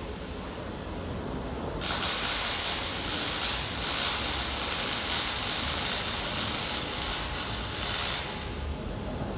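A workshop power tool running with a harsh, high-pitched rasping noise that starts suddenly about two seconds in and cuts off about six seconds later.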